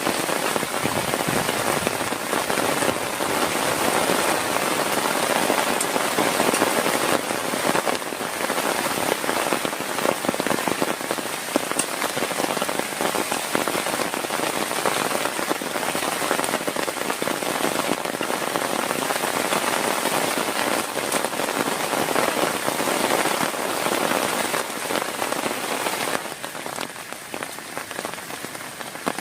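Heavy rain falling in a dense, steady patter of drops, which grows quieter near the end.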